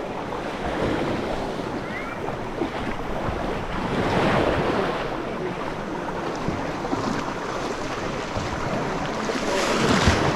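Sea waves washing onto a small sandy beach, with wind buffeting the microphone. The surf swells about four seconds in and again near the end.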